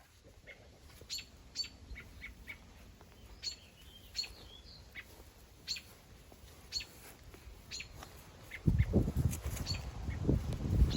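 Small birds chirping: short, high single chirps at uneven gaps, about one a second. Near the end a louder low rumbling noise comes in and covers them.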